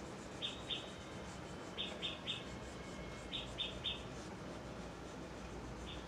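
A small bird chirping: short, high chirps in quick clusters of two or three, a cluster every second and a half or so.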